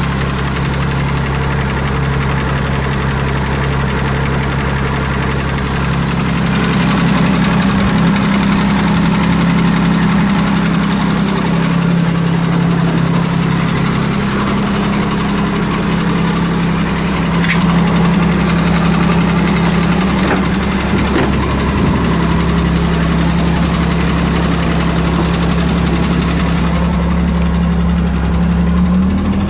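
Honda Beat's E07A three-cylinder engine idling steadily, freshly reinstalled and running just after its first start; the idle steps up slightly near the end.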